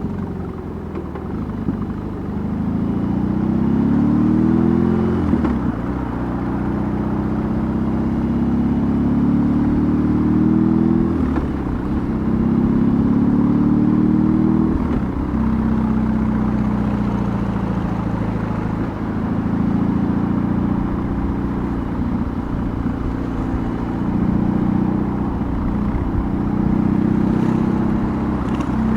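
BMW R18's 1802 cc boxer twin engine and exhaust under way, pulling up through the revs and dropping back at each gear change, about every four to five seconds.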